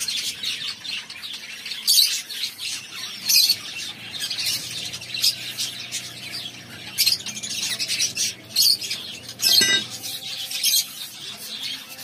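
Pet birds chirping and squawking: a running chatter of high calls, with louder sharp calls every second or two.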